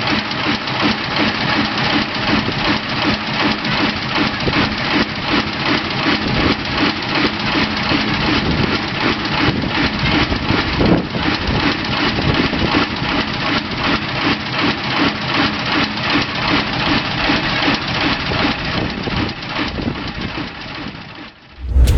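Enterprise DSG-36 large industrial diesel engine running steadily at idle with an even, rapid firing beat. It is running on its first start in 30 years and not at full capacity. The sound drops away near the end.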